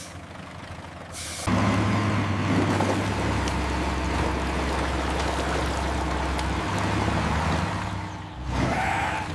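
Heavy vehicle engine rumbling with a hiss, starting suddenly about a second and a half in and holding steady, then dropping away briefly near the end.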